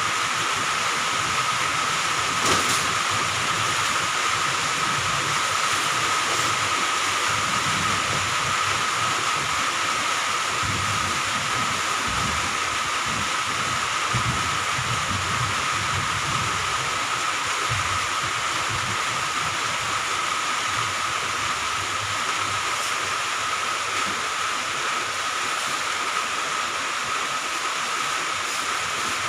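Steady rain hiss with one constant high tone running through it.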